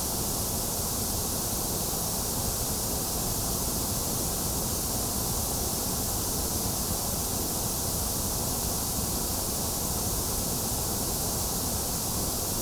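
Steady white noise for lulling a baby to sleep: an even, unbroken hiss, strongest in the highs and lows and thinner in the middle, with no change in level.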